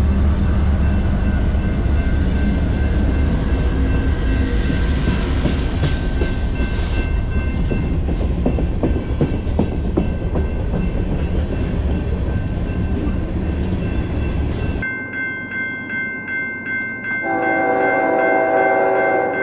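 A freight train rumbling past with wheel clatter. About 15 s in it changes abruptly to crossing bells ringing, and a diesel locomotive's horn sounds a chord near the end.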